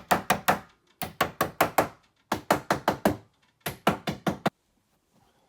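Hammer tapping nails into a new wardrobe back panel, in quick runs of five or six strikes with short pauses between. The knocking stops about four and a half seconds in.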